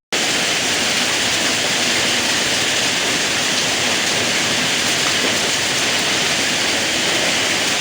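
Storm: a loud, steady rush of wind-driven heavy rain with no breaks.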